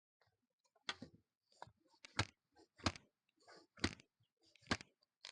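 A series of sharp knocks, about one a second, with fainter clicks between them.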